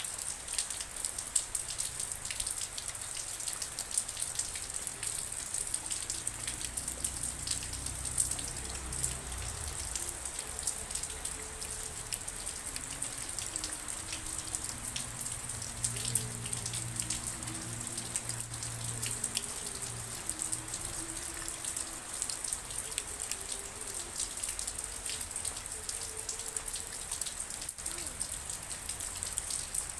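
Steady rain falling, a continuous hiss thick with fine, close drop ticks.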